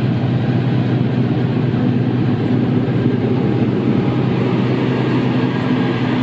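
Heavy truck's diesel engine running steadily, an even low drone.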